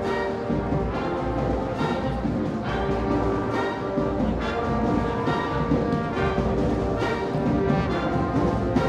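High school marching band's brass section playing sustained chords over drums, the notes held and changing every second or so.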